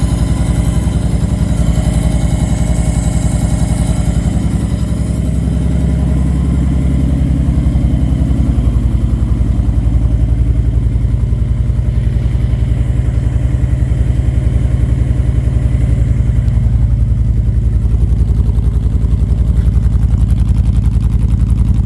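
2012 Honda Sabre's V-twin engine idling steadily after a true cold start, the engine still cold from months of sitting in freezing weather.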